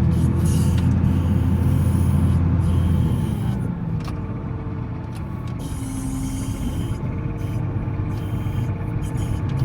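Volvo L70C wheel loader's diesel engine running hard while plowing snow, then easing off about three seconds in and running on at a lower, steady level.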